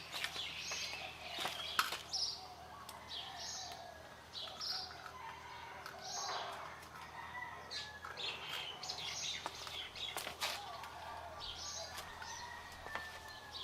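Birds chirping and calling in short, repeated notes, with scattered light clicks and knocks.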